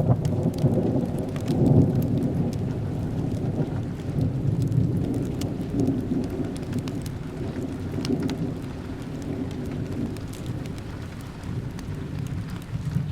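A long roll of thunder over steady rain: a low rumble that breaks in suddenly, swells again about two seconds in, then slowly dies away. Small crackles of a wood fire tick through it.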